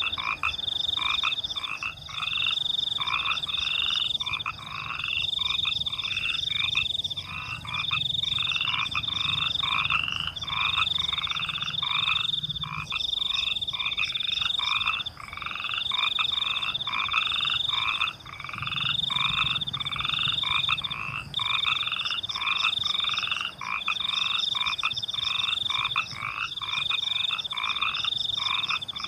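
A chorus of frogs croaking in a steady, evenly repeated rhythm, about one and a half calls a second, with crickets trilling high above them in pulses about a second long.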